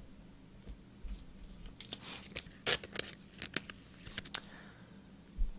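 Trading card packs and cards being handled: a cluster of sharp crinkles, rips and snaps in the middle, like a foil pack wrapper being torn open and cards flicked.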